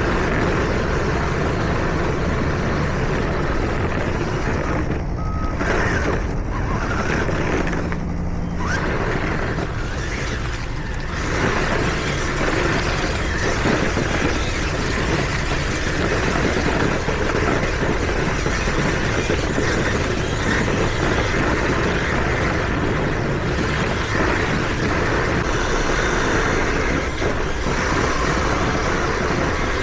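Kyosho Blizzard RC tracked vehicle running under power, a continuous mechanical noise of drive and tracks, with a few brief breaks in the first nine seconds.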